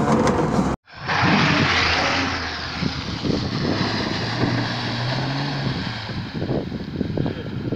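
Lada Niva (VAZ-2121) four-cylinder engine pulling the car through muddy ruts. The engine note climbs a little about halfway as it is revved under load, with scattered knocks and splashes in the second half. A brief break in the sound under a second in.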